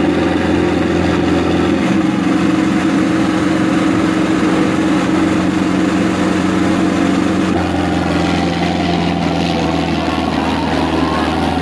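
Sonalika tractors' diesel engines running steadily under heavy load, pulling against each other in a tochan tug-of-war; the engine note shifts slightly about seven and a half seconds in.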